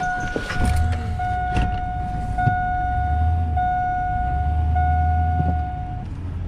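A pickup truck backing slowly: the engine rumbles low, rising a few times, under a steady electronic warning tone from the truck that runs in near-continuous segments about a second long and stops near the end.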